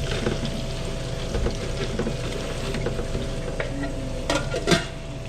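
Food frying with a steady sizzle, with light clinks of kitchen utensils and a louder clatter of metal about four and a half seconds in.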